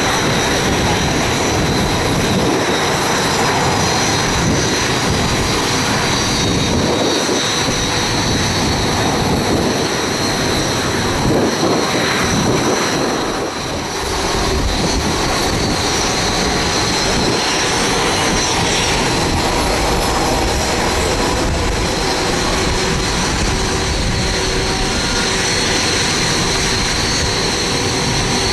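Red Arrows BAE Hawk T1 jet engines running close by: a loud, steady rush with a high whine held over it.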